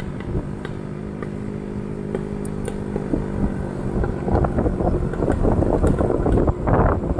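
Motorcycle engine running at a steady pitch, joined about four seconds in by louder irregular rattling and knocks.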